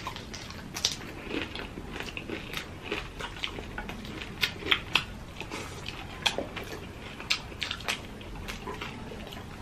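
Close-miked eating sounds: two people chewing fried milkfish and rice, with wet lip smacks and mouth clicks coming irregularly several times a second.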